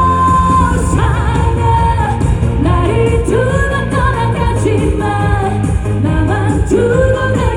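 Korean trot song sung live: a woman's voice with wavering vibrato over a loud pop backing track with a steady bass beat.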